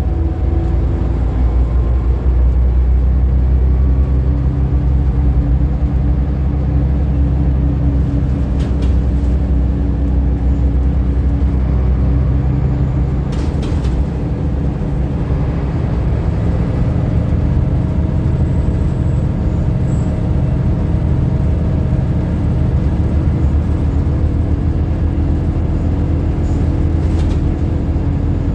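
Scania L94UB bus's diesel engine running steadily with a deep drone, its note changing about halfway through as the engine speed shifts. A few faint clicks come through over it.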